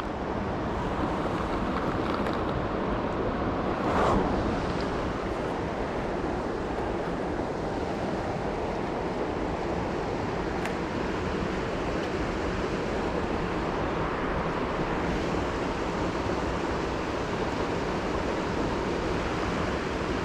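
Steady rush of creek water. A brief louder swell about four seconds in.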